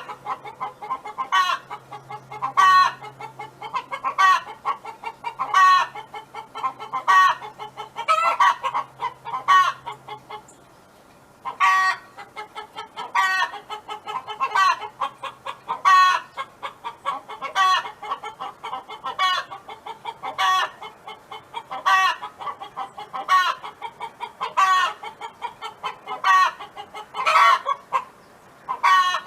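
Hen clucking: a loud call repeated about every one and a half seconds, with softer quick clucks between the calls, pausing briefly about ten seconds in.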